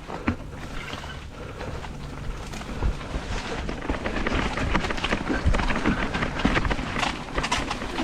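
Mountain bike running fast down a dirt single track: tyres on loose ground and the bike rattling over bumps. Many sharp knocks and clicks ride over a steady rushing noise, growing louder and denser about three seconds in.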